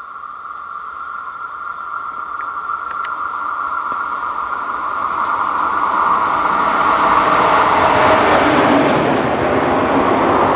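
Electric locomotive approaching and running through a station. Its noise grows steadily louder and peaks about eight seconds in as it passes.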